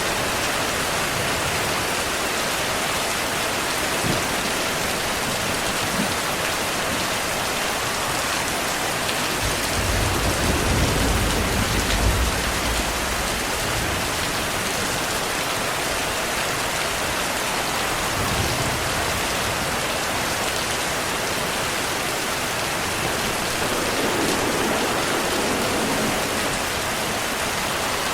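Heavy, steady rainfall, with a low roll of distant thunder that swells about ten seconds in and fades over a few seconds, and fainter rumbles later.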